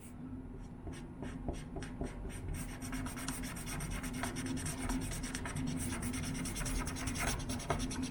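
Felt-tip furniture scratch-repair marker rubbed back and forth over a wooden tabletop: a continuous scratchy rubbing made of many small ticks, with a faint steady hum underneath.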